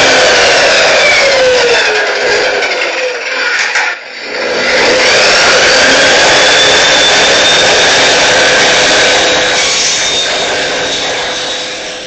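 Handheld power tool motor running loud with a whine, slowing nearly to a stop about four seconds in, then spinning back up and running on.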